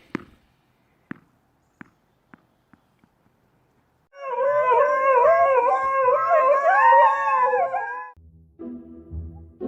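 A series of about seven sharp taps, coming faster and fainter, then a dog howling for about four seconds, its pitch wavering up and down. Music with a low beat starts near the end.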